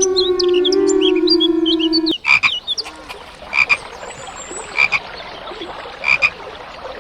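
Howling with birds chirping cuts off about two seconds in, followed by a frog croaking: four short pulsed calls, each about a second and a quarter apart.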